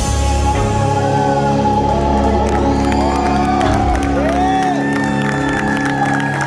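A live rock band's final chord struck and held, ringing out, with a crowd whooping and cheering over it. The deep bass drops away about four and a half seconds in, and a thin high tone enters near the end.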